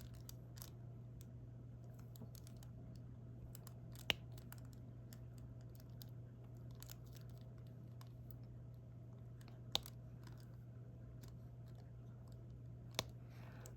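Faint scattered clicks and taps of diamond-painting drills being picked up with a drill pen and pressed onto the sticky canvas, with three sharper clicks standing out, over a steady low hum.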